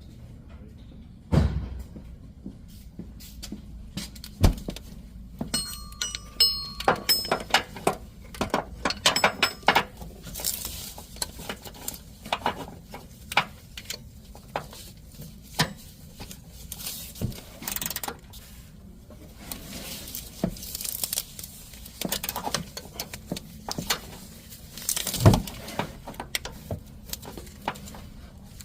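Metal hand tools, wrenches and sockets, clinking and clicking against the engine's pulley and tensioner bolts, with scattered sharp knocks. Two louder knocks come about a second and a half in and near the end. A brief metallic ring sounds about six seconds in.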